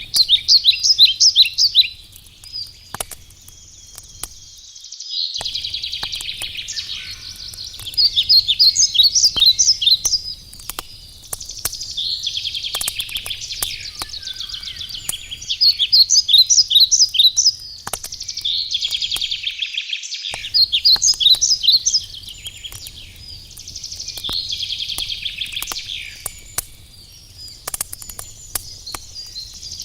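A songbird singing: phrases of about two seconds of quick repeated notes, one every three to four seconds. Scattered sharp crackles of a wood campfire run underneath.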